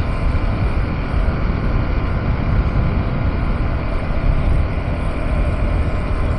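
KTM 390 Adventure motorcycle being ridden, its single-cylinder engine running at a steady pace under a constant low rumble of riding noise.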